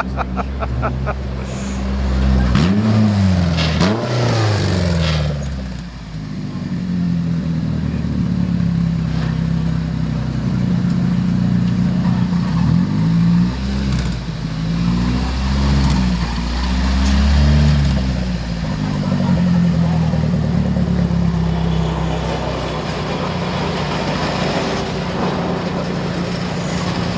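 A car engine running steadily, revved up and back down a few seconds in and several more times around the middle.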